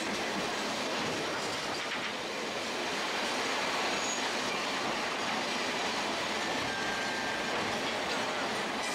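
Sagano Scenic Railway trolley train running along its track: a steady, even rumble and rattle of the cars and wheels, with a faint high wheel squeal creeping in near the end.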